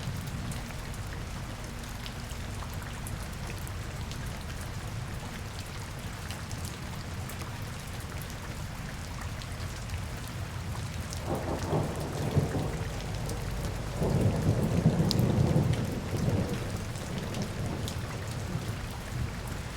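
Steady rain falling on a city street, an even hiss over a low rumble. About two thirds of the way in, a deeper rumble swells twice, louder than the rain, then fades back.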